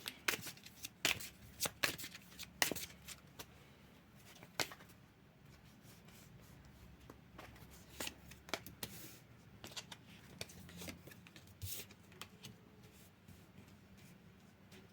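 Tarot cards being shuffled and handled, making soft, irregular clicks and short sliding strokes.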